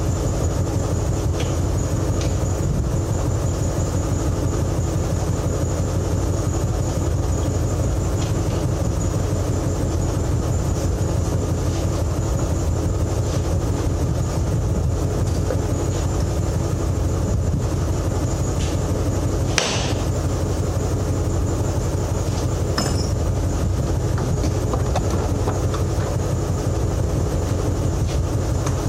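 A diesel engine idling steadily, with a few metallic clinks and one sharp knock about two-thirds of the way through.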